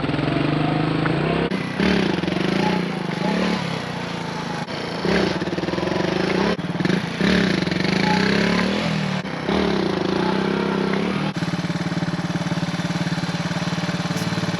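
Suzuki dual-sport motorcycle engine revving up and down over and over, about six throttle surges a second or two apart, then holding a steady pitch for the last few seconds.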